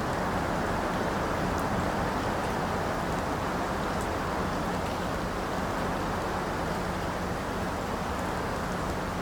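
Steady rain falling, a dense even hiss with a low rumble and a few faint drop ticks.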